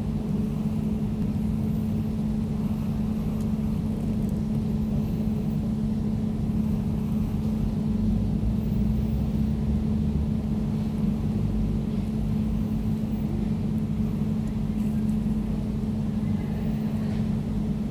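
Air conditioner running steadily: a constant low hum with a low rumble beneath it.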